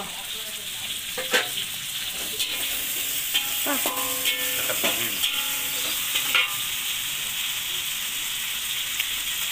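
Chopped red chilli and tomato sizzling in hot oil in a metal wok, with a metal spatula stirring and knocking against the pan a handful of times in the first few seconds.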